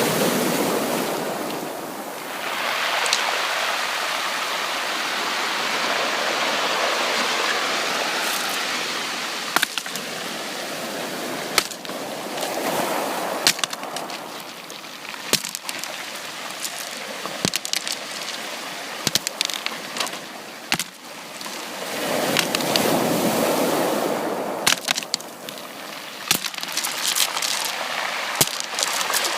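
Sea waves washing in and draining back: the rush swells and fades several times. From about a third of the way in, many sharp clicks and pops sound over the wash.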